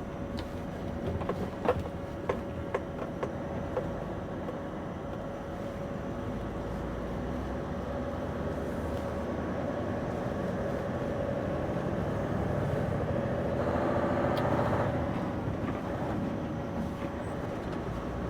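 Scania V8 lorry engine running steadily under way, heard from inside the cab, with a steady whine over the drone. A few short sharp knocks and rattles come in the first few seconds, and the sound swells a little about three-quarters of the way through.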